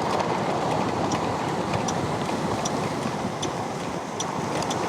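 Motor scooter riding through city traffic: steady engine, road and wind noise heard from the back seat, with scattered faint high ticks.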